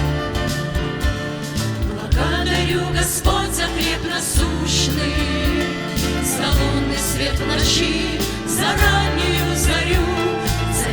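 Christian worship song with instrumental accompaniment; a vocal group begins singing about two seconds in.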